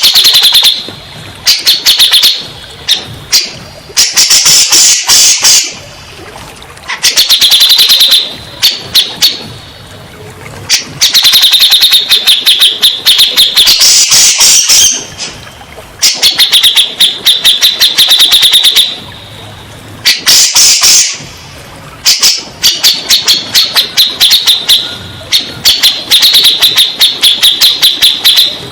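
Cucak jenggot (grey-cheeked bulbul) calling loudly in repeated bouts of rapid chattering notes, each bout one to three seconds long with short quieter gaps between.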